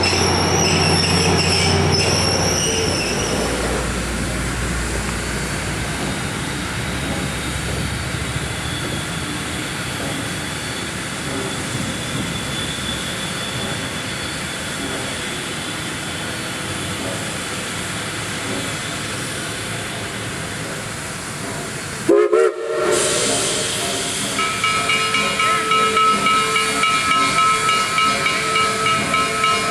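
Steam-hauled train rolling along the rails with a steady rumble. After a sudden cut, the 2-8-0 steam locomotive is heard working, with evenly pulsing exhaust, steam hiss and steady high tones of its whistle.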